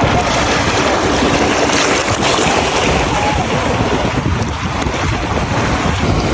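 Wind buffeting the microphone over steady surf, a loud, gusty rumble with a constant wash of waves.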